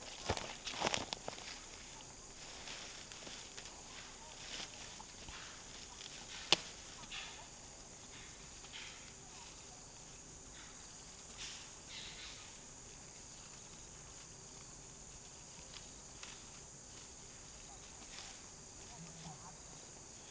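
Footsteps on the forest floor for the first second or so. Then a steady high hiss with scattered faint ticks and one sharp snap about six and a half seconds in.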